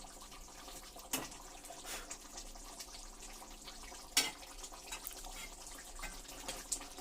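Pot of chicken curry simmering faintly, with two sharp clicks of a spoon against the pot, about a second in and about four seconds in.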